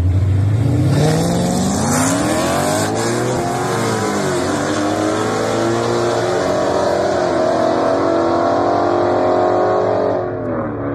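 A 2017 Ford Mustang GT's 5.0 V8 with bolt-ons and a cammed, tuned Dodge Challenger Scat Pack's 6.4 HEMI V8 launching side by side down a drag strip, their engines revving up hard, dropping at gear changes about three to four seconds in, then climbing again. The sound fades near the end as the cars pull away.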